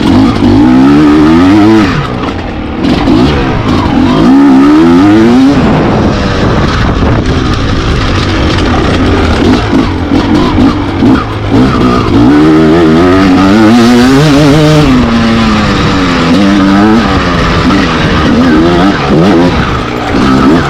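Enduro dirt bike engines revving hard, the pitch climbing and dropping again and again as the throttle is opened and closed.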